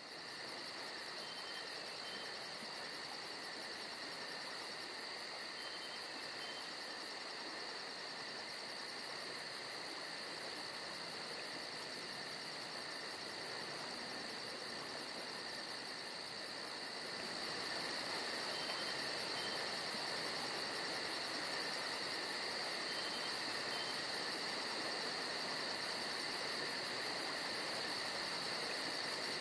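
Steady chorus of insects, several high, unbroken trills layered together with a very fast pulsing above them and a few short, higher chirps now and then; it gets a little louder about seventeen seconds in.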